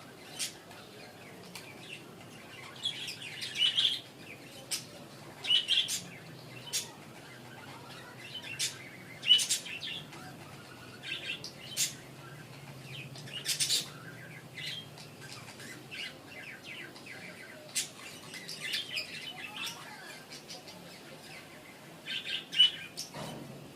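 Pet budgerigars of a breeding pair chirping: scattered sharp high chirps with several short spells of warbling chatter.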